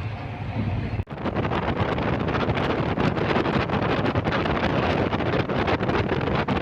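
Wind buffeting the microphone heavily aboard a boat under way, over the low drone of its engine; the sound changes abruptly about a second in as the buffeting begins.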